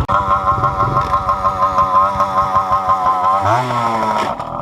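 Small off-road vehicle engine running at a steady speed with an even pulsing beat, its pitch rising briefly about three-quarters of the way through as it is revved.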